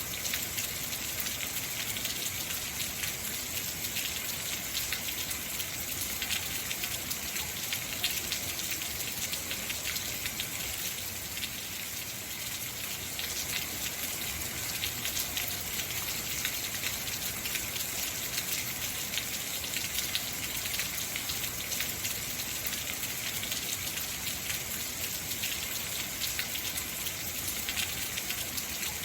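Heavy rain falling steadily: a dense hiss full of fine patter from drops striking surfaces, with no let-up or change.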